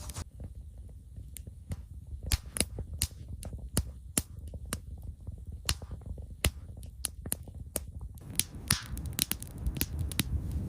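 Campfire crackling, with sharp, irregular pops of burning wood that come thicker near the end, over a steady low rumble.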